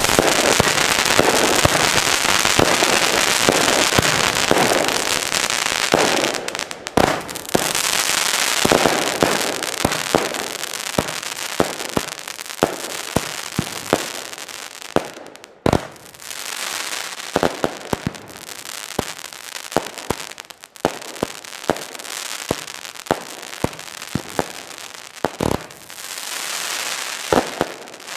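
Firework battery firing its shots into the air. A dense hissing rush of launches and bursts fills the first several seconds. Then comes a long run of sharp bangs and crackling star bursts, some in quick succession, growing more spaced out towards the end.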